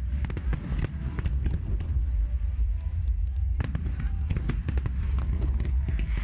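Display fireworks going off in a rapid, irregular volley of sharp bangs and crackles over a constant low rumble, with a denser cluster of reports a little past the middle.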